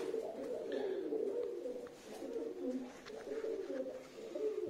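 Domestic pigeons cooing, several low warbling coos overlapping without a break.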